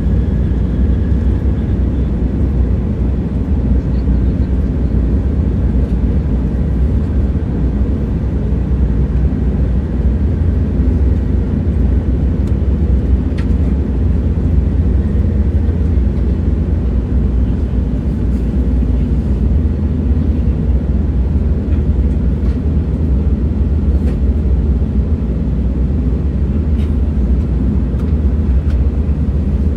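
A train running, heard as a steady, deep rumble with a few faint clicks scattered through it.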